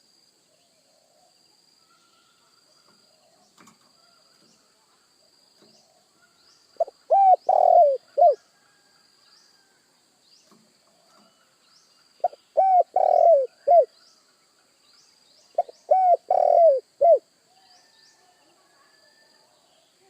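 Spotted dove (tekukur) cooing. It gives three phrases a few seconds apart, each a quick run of four or five low notes, over a faint steady high whine with small repeated chirps.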